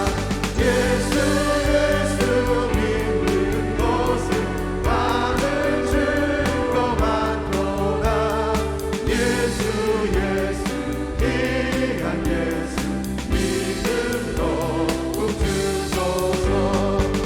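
Church praise team singing a Korean gospel hymn in chorus over band accompaniment with a steady beat.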